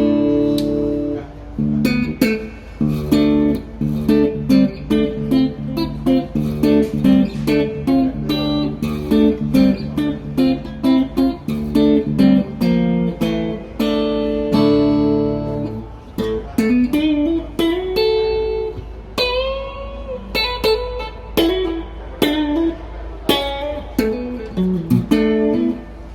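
PRS SE McCarty 594 Singlecut electric guitar played solo: a held chord, then a run of quickly picked single notes, another held chord about halfway through, and bent notes with vibrato in the second half.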